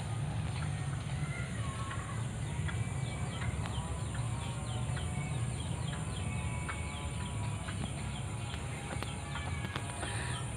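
Several birds calling in short, repeated notes, some of them fowl-like clucks, over a steady high-pitched hum and a low rumble.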